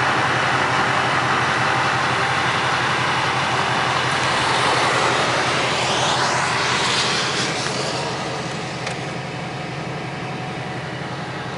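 Duramax diesel pickup truck driving through floodwater: a steady rush of water spray and splashing over the running engine, easing off about eight seconds in.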